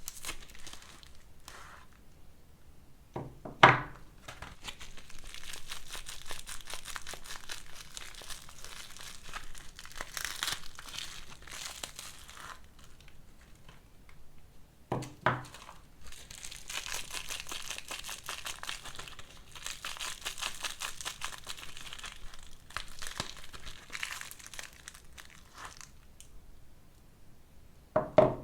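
Soap wrappers crinkling and tearing as bars of soap are unwrapped by hand, with a few sharp knocks, about 3.5 and 15 seconds in and again near the end.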